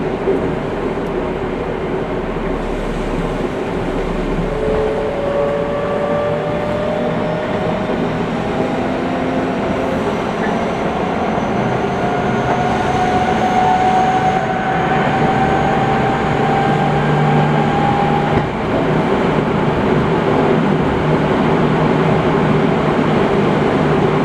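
Seibu 6000 series electric train running, heard from inside the car: the Hitachi GTO-VVVF inverter-driven traction motors hum with tones that climb slowly in pitch over about ten seconds as the train gathers speed, over steady wheel and rail rumble.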